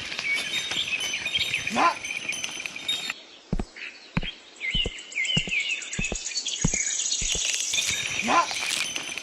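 Small birds chirping over outdoor ambience, with a rising call twice and a run of about eight sharp knocks in the middle.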